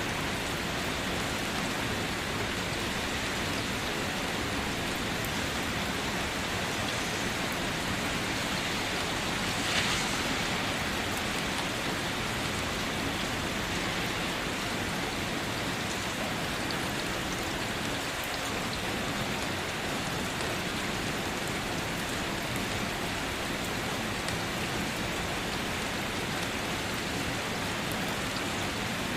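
Steady rain falling on foliage and surfaces: an even hiss with fine patter of drops. A single louder splash about ten seconds in.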